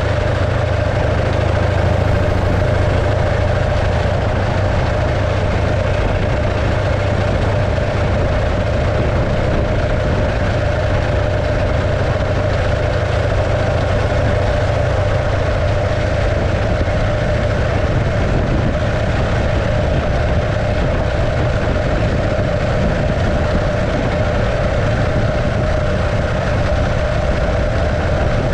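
The 650cc JAP V-twin engine of a 1915 Arcade motorcycle running steadily at an even speed.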